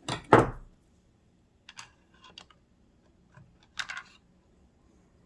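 Small tools and metal parts being handled on a sewing machine: a loud knock right at the start, then scattered light clicks and taps.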